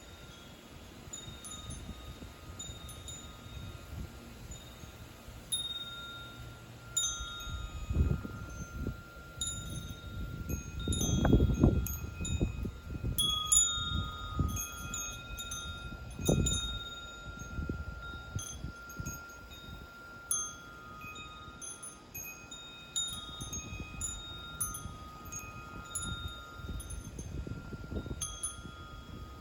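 Wind chimes ringing irregularly, several pitches struck at random and each tone ringing on for a second or more. Low rumbles swell beneath them, loudest about a third of the way in.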